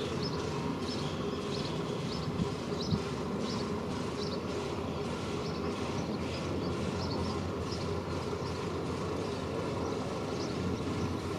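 Steady low rumble, with short high chirps scattered throughout.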